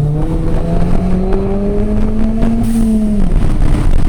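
Turbocharged Ford Fiesta ST 1.6-litre four-cylinder, running a big turbo and a catless CP-E exhaust, accelerating hard: its note climbs steadily for about three seconds, then drops away as the throttle is released.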